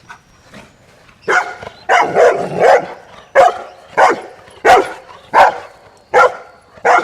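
Bernese Mountain Dog barking repeatedly, about ten loud barks in an even rhythm of roughly one every 0.7 seconds, starting about a second in.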